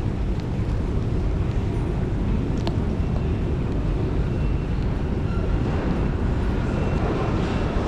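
Steady low rumble of railway-station background noise, with one sharp click about three seconds in.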